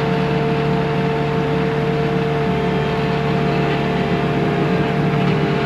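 Bobcat T630 skid steer's diesel engine running steadily under the operator, with a steady whine held on top of it.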